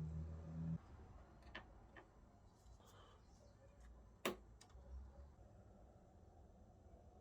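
Near silence with a low hum that stops just under a second in, a couple of faint clicks, and one sharp click about four seconds in.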